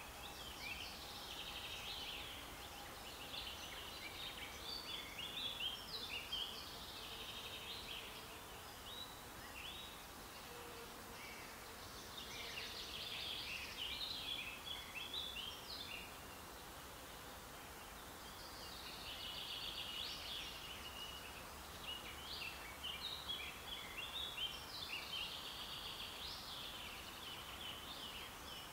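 Songbird singing in long bouts of quick, chattering high notes, three bouts with short pauses between them, over a steady background hiss.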